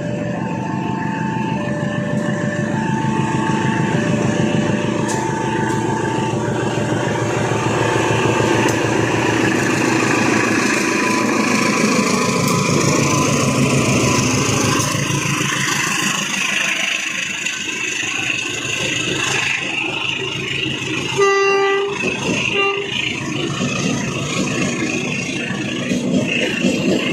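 A train running through in heavy rain: a dense rumble of the locomotive and wagons over the hiss of the rain, with an alternating two-tone warning signal for about the first nine seconds. About 21 seconds in, the train's horn gives a short blast and then a brief second one.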